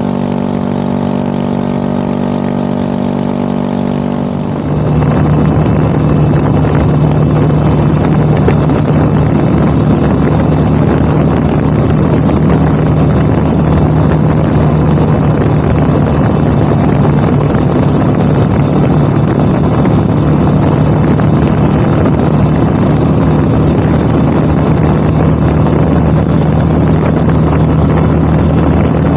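Motorcycle engine running at a steady pitch, then about four and a half seconds in the sound suddenly gets louder as the bike speeds up and settles into steady riding with heavy wind rush on the microphone.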